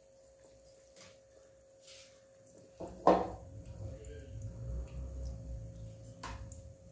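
Battered raw-banana bajji deep-frying in oil in a kadai: faint sizzling with scattered crackling pops. A loud knock comes about three seconds in, followed by a low rumble.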